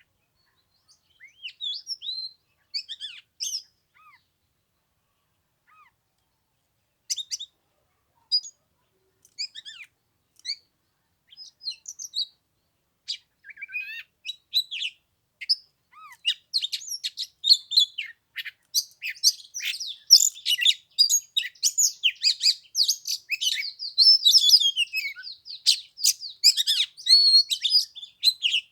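Oriental magpie-robin singing: scattered whistles and chirps at first, building about halfway through into a fast, continuous run of varied notes.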